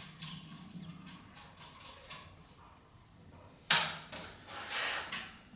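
A few faint ticks, then one sharp knock about two-thirds of the way in, followed by about a second of scraping or rustling.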